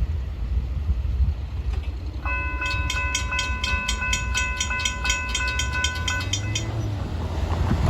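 Railroad crossing bell ringing rapidly, about four strikes a second, for about four seconds before stopping, over the steady low rumble of a freight train rolling past.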